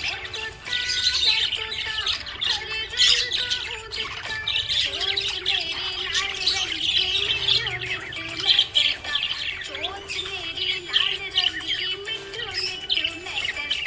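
A flock of small pet parrots chattering, with rapid overlapping chirps and squawks, over steady background music.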